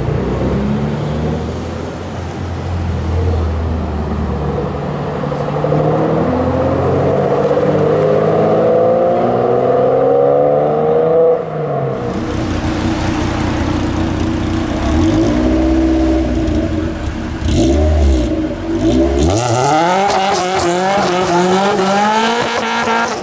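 Car engines revving and accelerating away one after another, with the pitch climbing through the gears several times.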